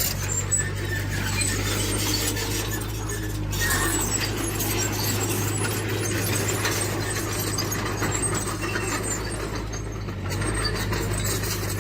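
Diesel engine of heavy earthmoving machinery running steadily, with scattered metallic squeaks and clinks from the working machine.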